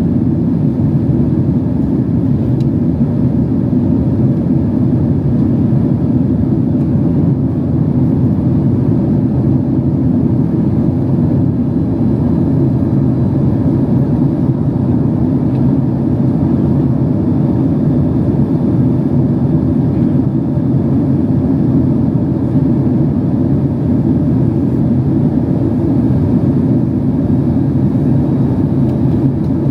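Steady drone inside the passenger cabin of a Boeing 767-300 in flight: jet engine and airflow noise, low and even, with no changes.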